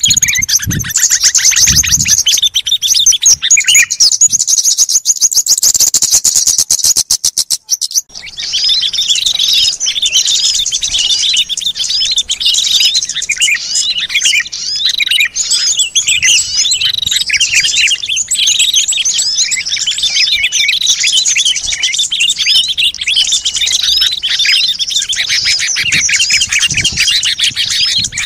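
Bird-lure recording of small songbirds calling: a fast, evenly repeated trill of high notes for about the first eight seconds, then, after a brief break, a dense chorus of many small birds chirping over one another.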